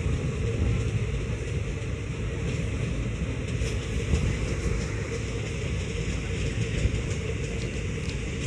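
Steady running rumble of a passenger train's coach wheels on the rails, heard from an open window inside the moving coach, with a few faint clicks.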